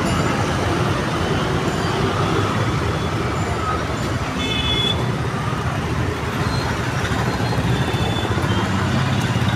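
Steady road traffic noise from passing vehicles, with a brief high-pitched tone about four and a half seconds in.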